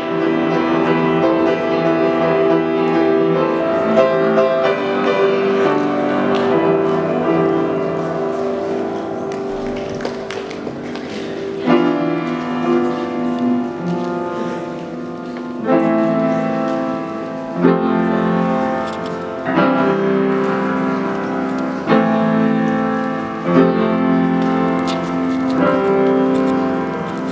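Piano playing slow held chords, with a new chord struck about every two seconds from the middle on.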